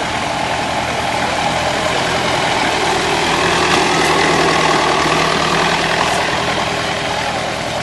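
Vintage tractor engine running as it drives past, growing louder to a peak about halfway through and then fading.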